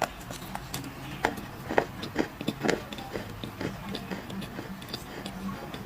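Dried clay crunching and crumbling: irregular sharp crackles and clicks, several a second, some louder snaps, over a faint steady low hum.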